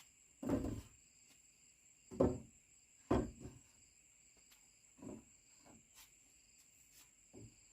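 Steady high-pitched insect chirring, likely crickets, with a few irregular knocks or scrapes from work, the loudest being near the start and around two and three seconds in.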